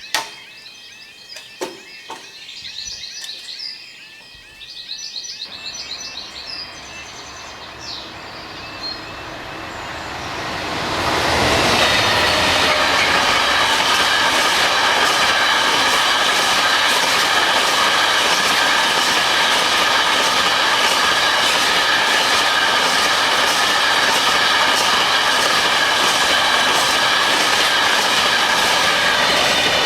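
Birds chirping, then a Freightliner Class 66-hauled freight train rises out of the distance and passes at speed from about a third of the way in. Its wagons clatter in a steady rhythm over the rail joints.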